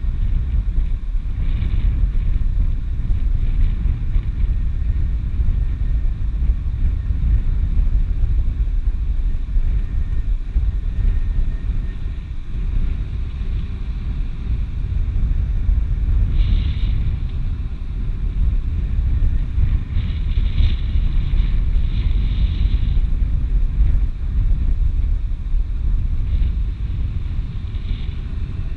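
Wind buffeting the microphone: a loud, steady low rumble, with a few brief higher rushes.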